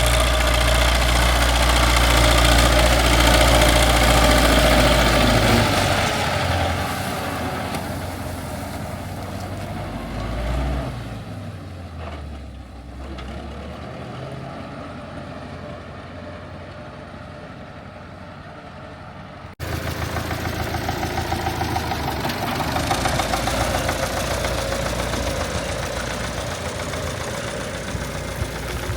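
Old tractor engine running steadily. It is loud for the first few seconds, then eases to a lower, quieter run, and about two-thirds of the way through it jumps abruptly back to louder running.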